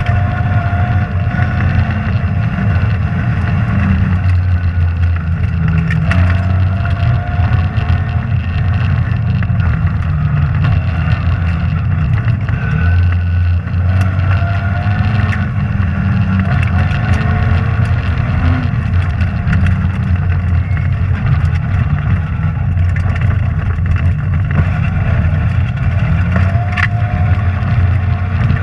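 Rally car engine heard from inside the cabin, working hard under load. Its pitch repeatedly rises and then drops back as it is driven through the gears, over steady road and tyre noise.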